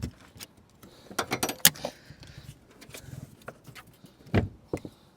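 Plastic interior trim parts being handled and fitted: a series of short clicks and knocks, a quick cluster about a second in and another sharp knock near the end.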